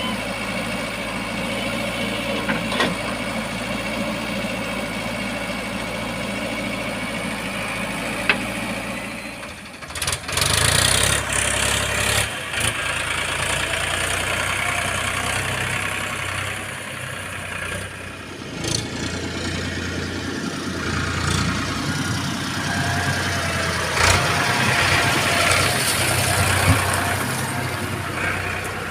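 Heavy machine's diesel engine running steadily; about ten seconds in the sound changes abruptly to a louder, rougher mix, with a few sharp knocks near the middle and end.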